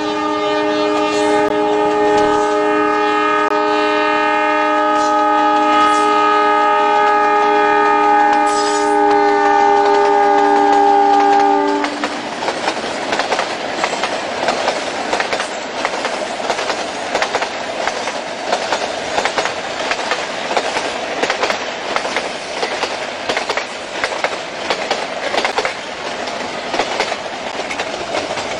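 Metre-gauge diesel locomotive sounding its horn in one long, steady blast of several notes that cuts off about twelve seconds in. Then the passenger coaches roll past close by with a rapid clickety-clack of wheels over the rail joints.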